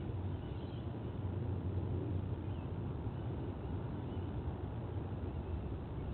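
Steady low outdoor rumble with faint, short high bird chirps now and then.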